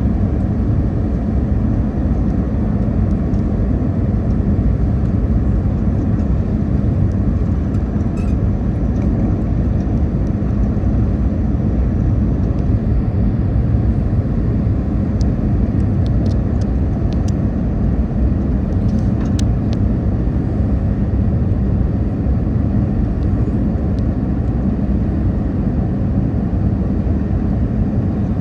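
Steady rumble of an Airbus A320 airliner's engines and airflow heard from inside the passenger cabin on approach to landing, with a few faint clicks.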